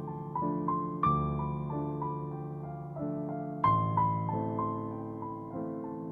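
Background music: a gentle piano or electric-piano piece, chords struck about every two to three seconds under a simple melody of single notes.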